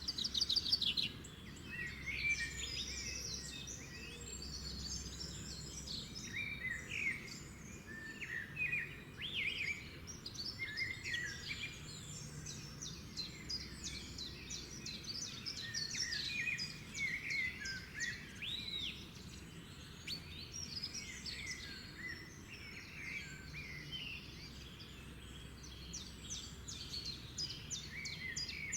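A chorus of several songbirds chirping, trilling and whistling in overlapping calls, with a faint steady low background rumble.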